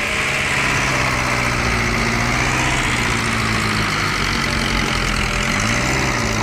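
A heavy machine's engine running steadily. Its pitch dips briefly about five and a half seconds in, then picks back up.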